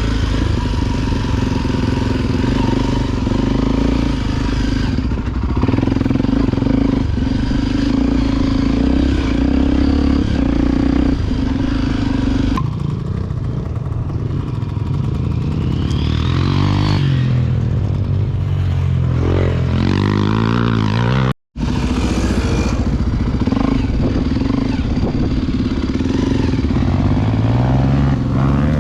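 Honda XR Tornado single-cylinder four-stroke trail bike riding off-road, the engine at a steady pitch for the first twelve seconds or so. After that it revs up and down repeatedly, and the sound cuts out for an instant about three-quarters of the way through before a steady run resumes.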